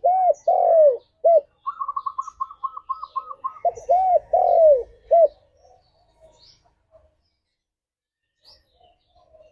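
Spotted dove cooing: two phrases of three or four low, arched coo notes, with a quick run of short higher notes between them, followed by faint high chirps from other small birds.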